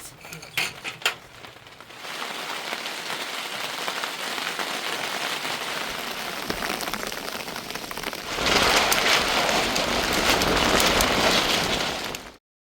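Rain falling steadily, with a few sharp drip-like taps in the first two seconds. It turns heavier and louder about eight seconds in, then cuts off abruptly near the end.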